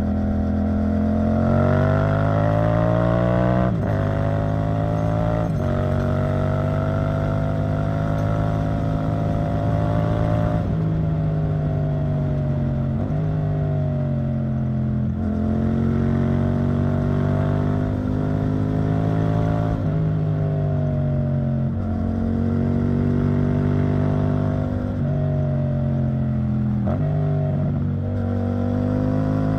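Yamaha MT-07's parallel-twin engine running through an Arrow Thunder titanium exhaust while being ridden. The engine note climbs in pitch, then breaks and drops back at gear changes several times, with stretches of steady cruising in between.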